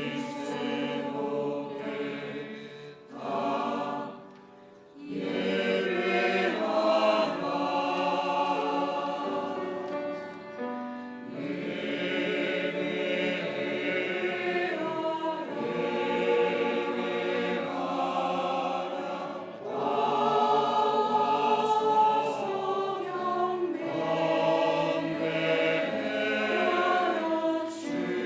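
A church choir singing a Christmas cantata piece in phrases, with short breaths between them, about four seconds in and again near eleven and twenty seconds.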